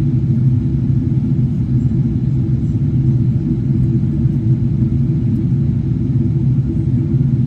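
Boeing 777-300ER airliner giving off a steady low rumble that holds even throughout.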